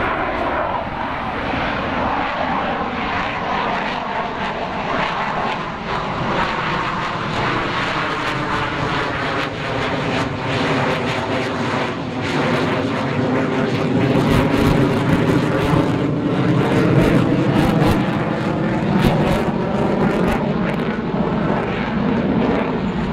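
Fixed-wing aircraft engine noise as a plane flies a pass, a continuous rushing sound whose tone swirls slowly, growing louder in the second half.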